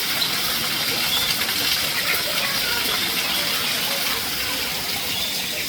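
Steady rushing water, with a few faint bird chirps above it.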